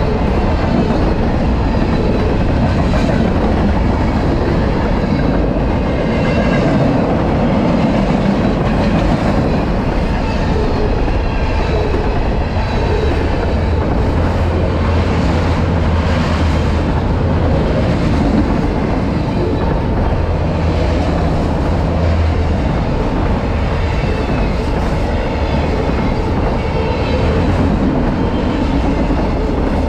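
Freight cars of a long freight train rolling past at speed: a steady rumble and clatter of steel wheels on the rails, with faint, wavering high wheel squeals.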